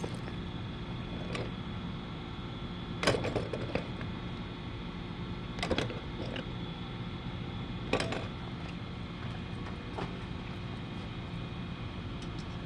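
Knocks and clinks of hand tools and parts being handled during brake work, three louder ones about three, six and eight seconds in, over a steady hum.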